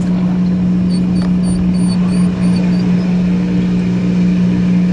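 Car engine and road noise heard from inside the cabin while driving, a steady low hum. About a second in, a quick run of about seven short high chirps sounds over it.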